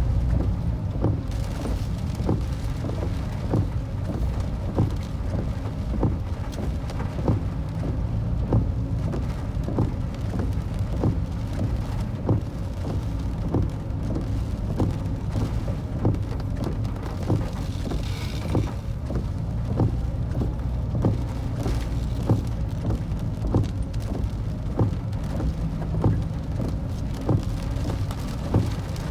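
Typhoon storm outdoors: a steady low rumble of strong wind buffeting the microphone, with rain ticking irregularly throughout.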